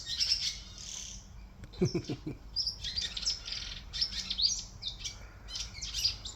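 A family of swallows twittering and chirping, many quick, high calls overlapping almost without a break.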